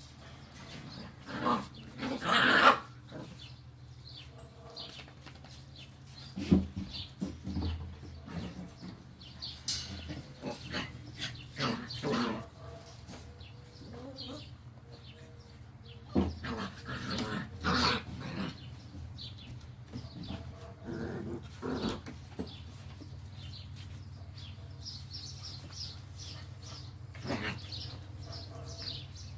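Seven-week-old puppies yipping and barking in irregular short bursts, the loudest a few seconds in, over a steady low hum.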